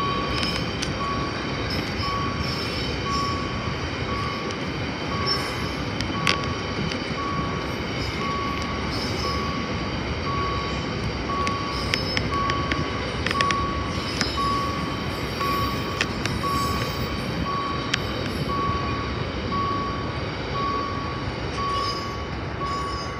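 Freight train's container cars rolling past with a steady rumble of wheels on rail and occasional clanks. Over it a single-pitched electronic beep repeats about once a second.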